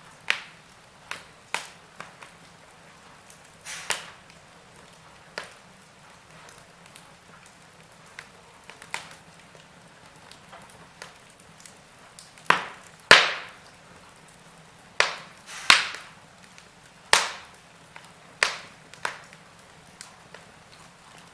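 Wood fire crackling in a fireplace: irregular sharp pops and snaps of burning wood over a faint steady hiss, with a run of louder pops in the second half.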